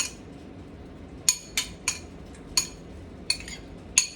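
Utensil clinking against a dish about seven times at an uneven pace while pico de gallo is scooped out, each clink sharp with a brief ringing tone.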